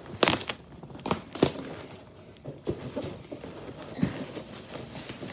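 A doll's box and packaging being handled and opened: several sharp knocks and taps, the loudest near the start and about a second and a half in, with some crinkling between them.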